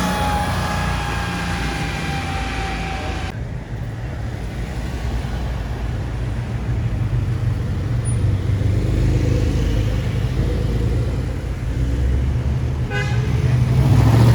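Car engines and street traffic. A steady high tone runs for the first few seconds and then cuts off. After that a low engine rumble builds and gets louder near the end.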